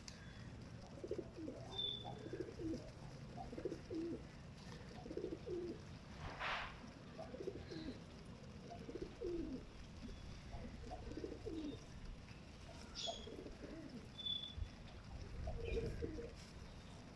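Domestic pigeons cooing over and over, low throaty calls that bend in pitch and come about once a second.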